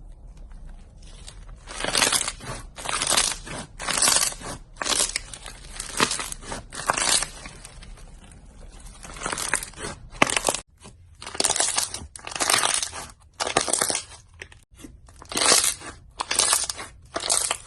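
Repeated crunching as a crumbly material is crushed, roughly one crunch a second, with a short lull about halfway through.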